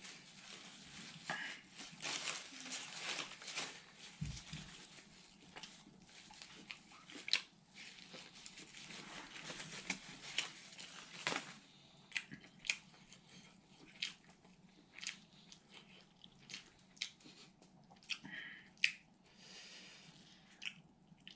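Close-miked eating sounds: a man chewing a mouthful of rice and curry, with irregular wet mouth clicks and lip smacks.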